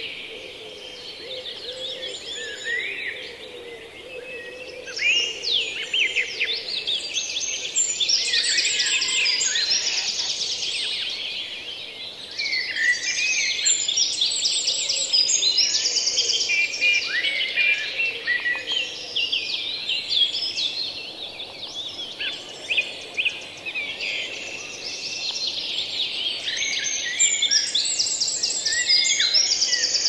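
Songbirds chirping and twittering without pause, many short overlapping calls and trills, a busy garden chorus.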